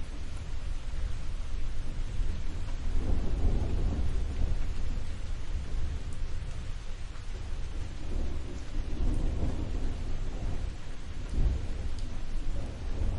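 Thunderstorm: steady rain hiss under a continuous low rumble of thunder. The thunder swells twice, about three seconds in and again around nine seconds.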